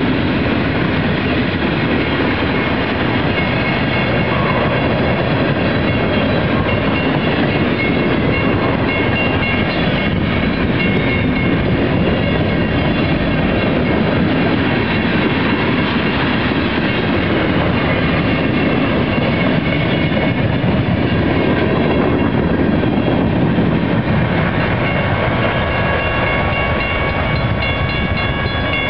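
Freight train cars rolling past, a steady rumble of wheels on rails. A thin high squeal comes and goes in the second half and is strongest near the end.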